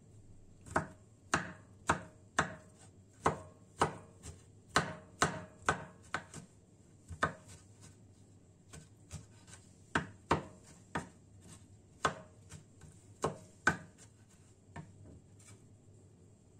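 Kitchen knife chopping on a cutting board: a run of sharp, uneven knocks, about two a second, with a few softer strokes a little past the middle.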